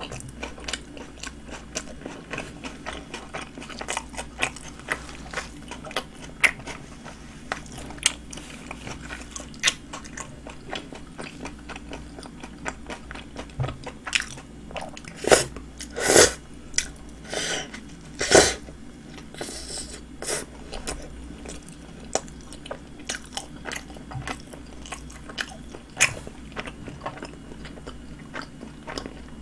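Close-miked chewing and biting of a Subway sandwich on soft flatbread: a steady run of wet mouth clicks and smacks, with a few louder ones about halfway through.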